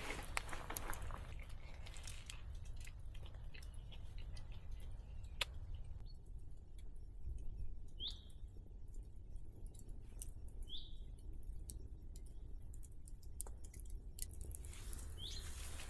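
A bird gives three short high chirps a few seconds apart, over a low steady forest rumble. Faint scattered clicks and crackles sound mostly in the first couple of seconds.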